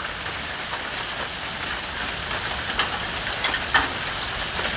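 Steady rain falling in a thunderstorm, with a couple of sharp ticks of drops striking, about three seconds in and again near four.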